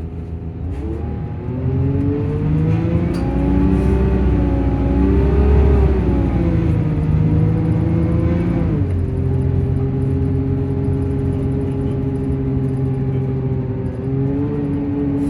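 Volvo engine and cooling fan of a Plaxton-bodied coach running under power: the pitch rises about a second in, swells and wavers, then drops sharply about halfway through to a steady lower note, with a short rise again near the end.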